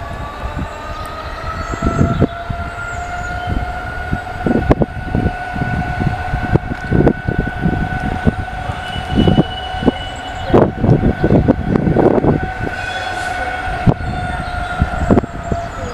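Class 66 diesel freight train approaching slowly round a curve. A steady two-note whine holds over a low rumble, with irregular low thumps.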